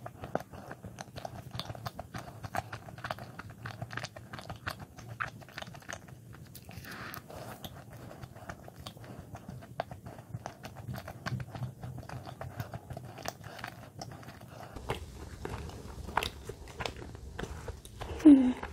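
Close-miked chewing of soft cream bread: steady wet chewing with many small mouth clicks. Near the end there is a short, louder squeak as a soft cream-filled bun is pulled apart.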